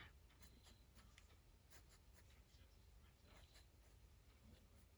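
Faint scratching of a fine-tip ink pen drawing on paper, in short irregular strokes.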